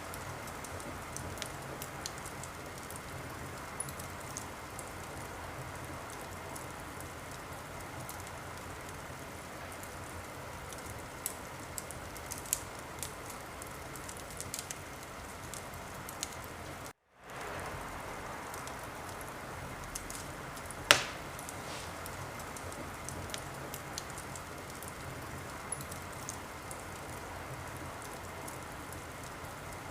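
Wood fire in a fireplace crackling steadily, with scattered small snaps and one loud pop about two-thirds of the way through. The sound cuts out for a split second a little past the middle.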